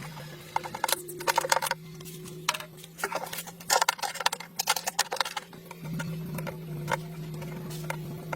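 Steady low mechanical hum with bursts of rapid clicking and rattling, thickest in the first half and thinning to scattered single clicks near the end.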